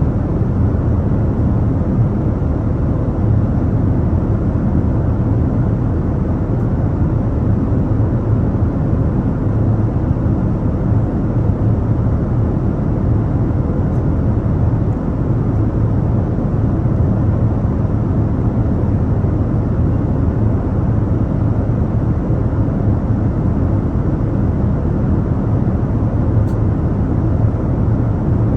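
Airliner cabin noise heard from a window seat in flight: a steady low rumble of engines and airflow that does not change.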